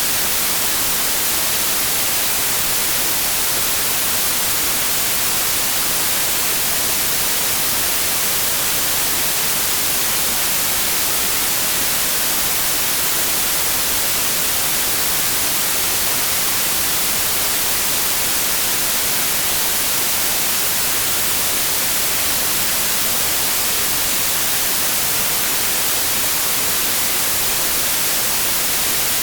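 Steady, unchanging white noise: an even hiss, strongest in the treble.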